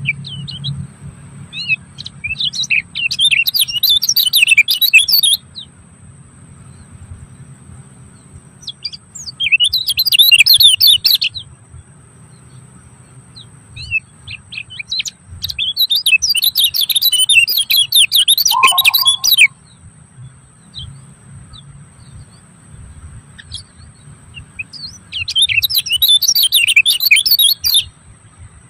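A songbird singing in four bouts of rapid, high twittering, each two to four seconds long, with a steady thin high tone underneath.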